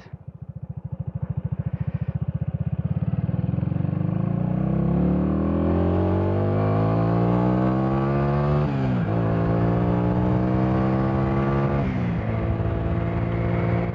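Minsk D4 125's single-cylinder four-stroke engine pulling away from low revs and accelerating hard, its note rising steadily, with a gear change about nine seconds in and another about twelve seconds in.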